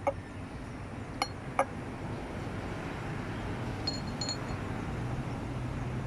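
Hard objects tapping and clinking: three sharp knocks in the first two seconds, then two light ringing clinks about four seconds in, over a steady low hum.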